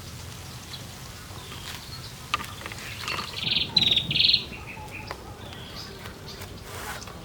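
A bird calling outdoors: a few short, buzzy, trilled notes come about three and a half to four and a half seconds in, with one more near the end. A few faint knocks sound over a steady low background.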